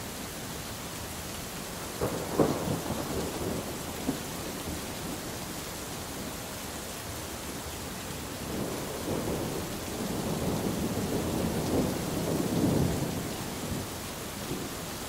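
Steady rain hissing through a night thunderstorm, with a sharp thunderclap about two seconds in and a longer roll of thunder building in the second half, loudest near the end.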